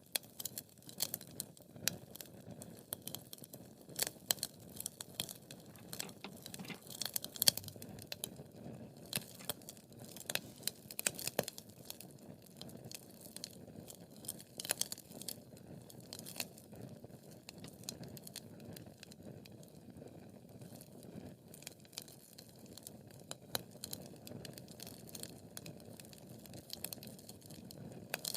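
Wood fire burning in a fireplace: irregular sharp crackles and pops over a soft, steady rustle of flames. The crackles come thicker in the first half, with the loudest pop about seven and a half seconds in.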